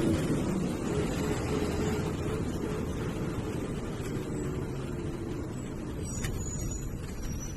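MSRTC bus running, heard from inside: a steady engine and road rumble that eases off slightly, with a single sharp click about six seconds in.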